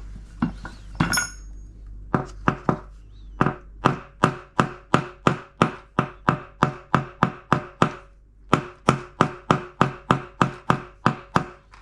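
Rapid metallic hammer taps, about two or three a second with a short ringing after each, driving a new drum bearing into its seat in an LG washing machine; the bearing went in skewed, one edge seated and the other sticking up, and is being tapped level. The taps start about two seconds in and pause briefly near the end.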